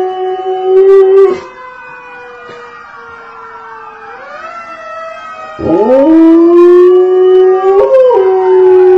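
A dog howling with its muzzle raised. A long, steady howl breaks off about a second in and is followed by a quieter stretch of wavering, gliding tones. Past the middle, a second howl swoops sharply up and then holds steady.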